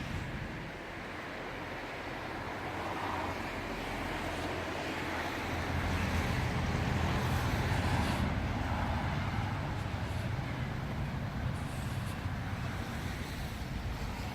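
Street traffic running steadily, with a low engine rumble that swells in the middle as a vehicle passes.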